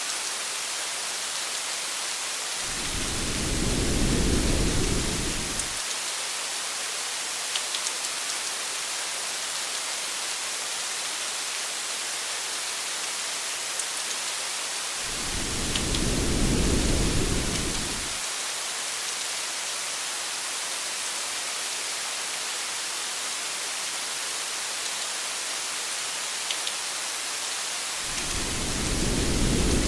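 Steady rain with a few sharper drops, and a low rumble of thunder that swells and fades three times, about every twelve seconds.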